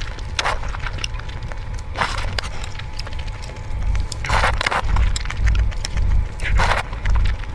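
Close-up eating noises: a few short bursts of mouth sounds, about one every two seconds, over a low rumble.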